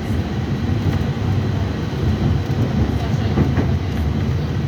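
Tram running on its rails, a steady low rumble of wheels and running gear with a faint high steady tone above it and a few light knocks about three and a half seconds in.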